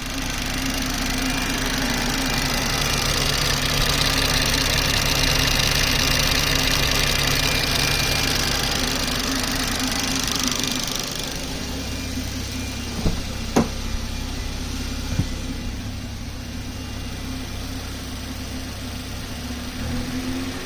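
BMW 340i's B58 3.0-litre turbocharged inline-six running with a ticking that the owner asks about as not normal; the ticking is said to fade as revs rise and return when they drop. The sound is louder for the first half and settles lower about halfway through, with a few sharp clicks soon after.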